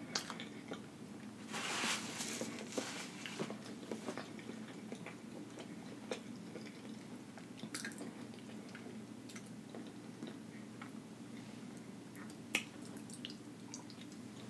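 Close-miked chewing and mouth sounds of a person eating seafood-boil food dipped in herb butter, with a louder noisy stretch about two seconds in and scattered small clicks, over a steady low room hum.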